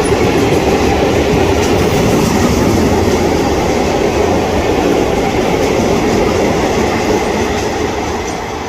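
A freight train's wagons rolling past on the rails, a continuous clatter of wheels over the track, fading as the train draws away near the end.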